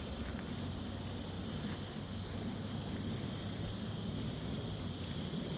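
Outdoor ambience of insects making a steady high drone, over an uneven low rumble.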